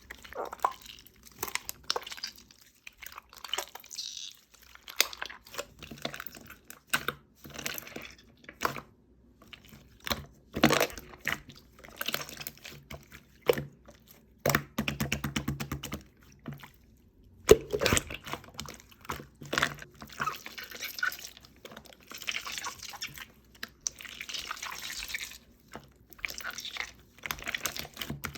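Jiggly slime being squished and pressed by hand, making wet, sticky pops and clicks, with a quick run of small pops about halfway through.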